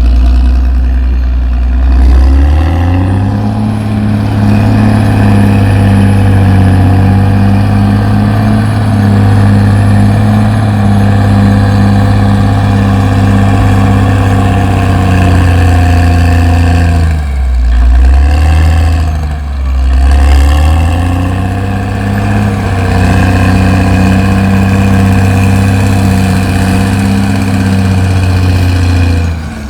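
CAT D6R XL bulldozer's diesel engine running hard. Its pitch climbs a few seconds in, dips and recovers twice around the middle, and sags once more a little later.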